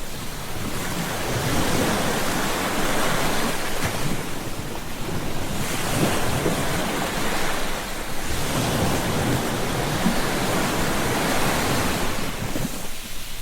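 Ocean surf breaking on a beach, the wash of the waves swelling and easing in long surges every few seconds.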